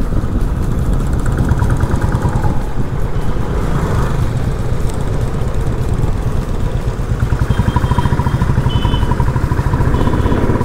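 Motorcycle engine running under the rider while riding in traffic, a steady low throb. About seven seconds in, its beat becomes more distinct and regular.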